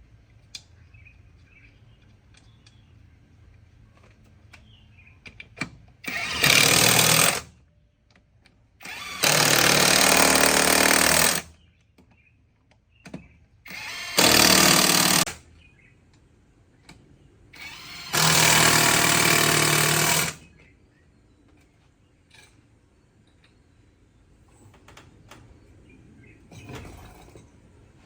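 A power tool run in four short bursts of one and a half to two and a half seconds each, loud and full of noise, with quiet gaps and small clicks of handling between them.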